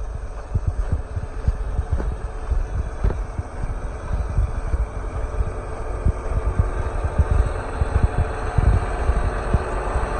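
John Deere 8245R tractor's diesel engine running, growing stronger with a faint rise in pitch from about halfway through, with irregular low thumps throughout.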